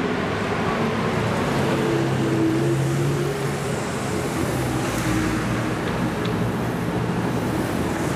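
Porsche 918 Spyder's V8 engine pulling away through a junction, a steady engine note for the first few seconds that then fades into the surrounding city traffic noise as the car moves off.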